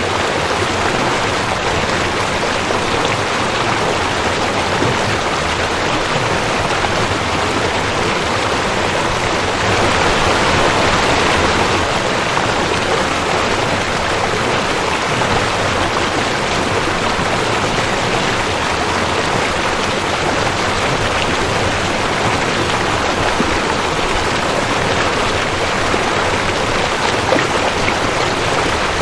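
Rushing creek water, a steady full rush of flowing water, swelling a little about ten seconds in.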